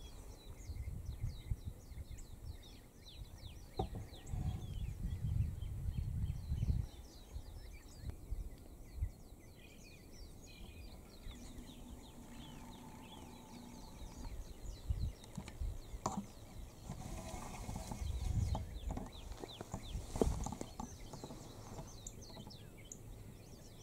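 Many small birds chirping, short quick calls repeating throughout, densest in the first half, over intermittent low rumbles.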